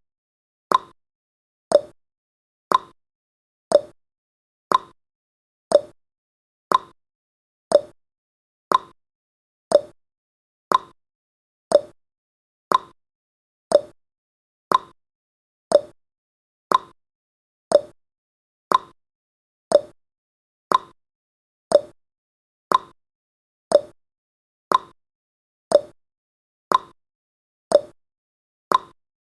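Clock-style ticking sound effect of a countdown timer, one short tick each second, with successive ticks alternating between a higher and a lower pitch like a tick-tock.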